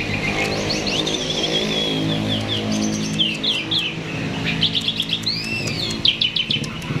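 Starling in full song, a rapid, continuous run of chirps and whistled sweeping notes, over a low steady drone.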